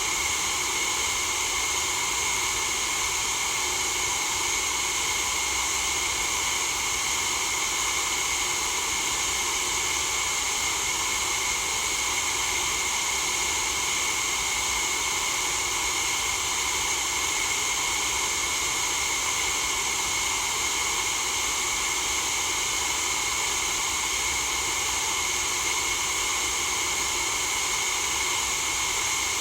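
Steady white-noise hiss for sleep, constant in level with no changes or breaks, bright and hissy with little low rumble.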